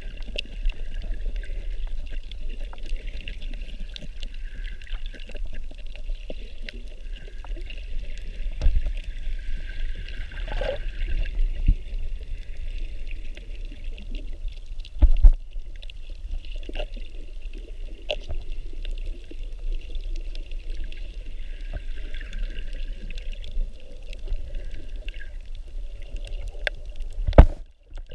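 Water sloshing and trickling around a snorkeler's camera, with a steady low rumble and many small scattered clicks. A loud knock comes about halfway through and another near the end.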